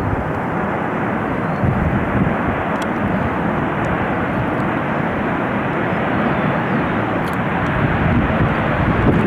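Jet aircraft engines heard as a plane passes close by: a loud, steady rushing noise that builds just before and holds throughout.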